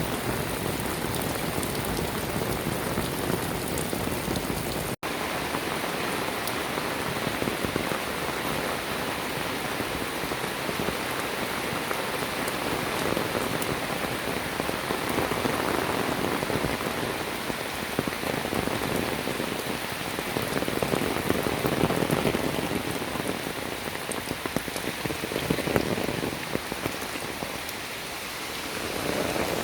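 Steady rain falling, a dense patter of drops on surfaces that swells and eases a little now and then. The sound cuts out for a split second about five seconds in.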